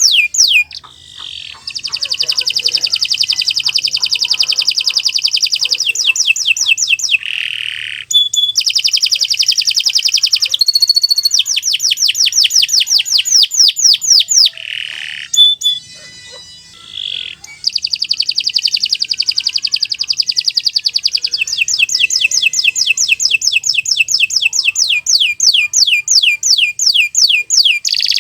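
Domestic canary singing long, rapid trills of evenly repeated high notes, each run lasting several seconds, with a few short breaks between phrases.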